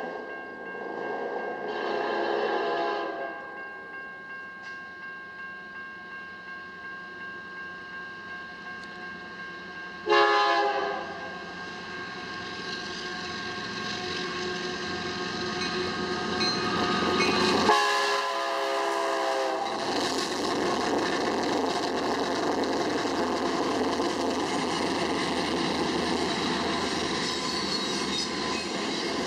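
Union Pacific diesel freight locomotives sounding their air horn for a grade crossing: a blast about two seconds in, a short loud one about ten seconds in and a longer one near eighteen seconds, over the steady ringing of the crossing bell. In the second half the rumble of the locomotives and the clatter of double-stack container cars grow as the train passes close by.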